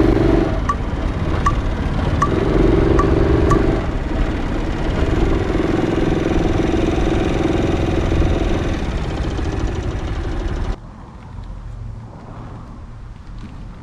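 Motorcycle riding, with engine and road noise and a light tick repeating a little faster than once a second in the first few seconds. It cuts off suddenly near the end, giving way to a much quieter background.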